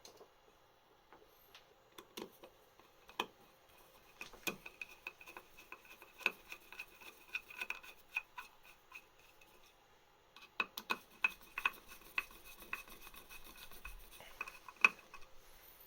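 Small parts and hand tools being worked at a workbench: irregular sharp clicks and scraping rubs, a few scattered at first, then two busy runs with a short lull between them about two-thirds of the way through.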